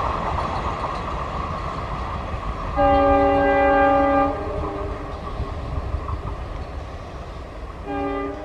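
Passenger train rumbling past on the rails while a diesel locomotive's multi-tone horn sounds one long blast of about a second and a half, then a short blast near the end.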